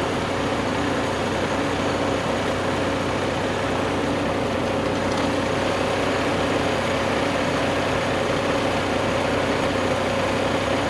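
Vehicle engine running steadily at an even speed, hauling a heavy oak log on a dolly out of the woods.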